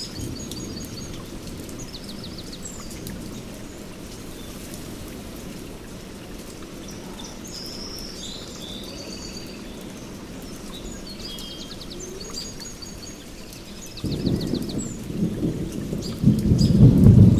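Steady rain with birds chirping and trilling throughout. About fourteen seconds in, a low rumble of thunder builds and is loudest near the end.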